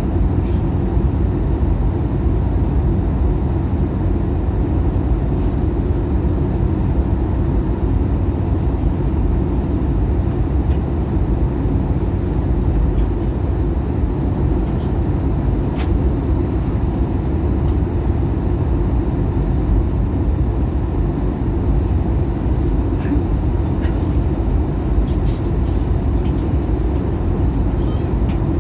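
Airbus A320-200 cabin noise during descent: a steady, low rumble of airflow and engines, with a few faint clicks.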